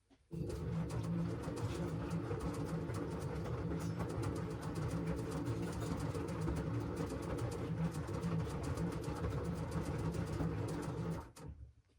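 LG washing machine's motor turning the drum, a steady hum with sloshing noise, starting abruptly and stopping abruptly shortly before the end; the start-and-stop pattern is the drum's tumbling during the wash phase.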